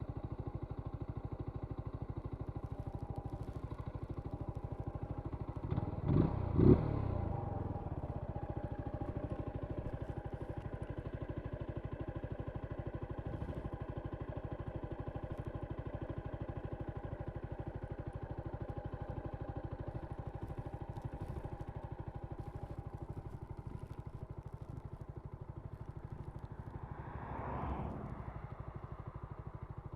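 2022 Zontes G1 125 Scrambler's single-cylinder 125 cc engine running at idle, blipped twice quickly about six seconds in, with a smaller rise in revs near the end.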